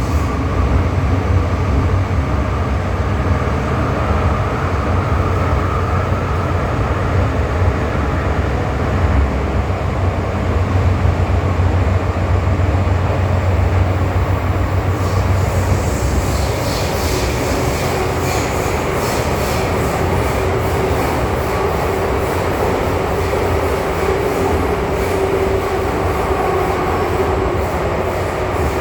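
MTR M-Train electric multiple unit running at speed between stations, with a steady low rumble of wheels on track. About halfway in, sharper rail clicks and a brighter rattle join, and a steady mid-pitched hum holds through the second half.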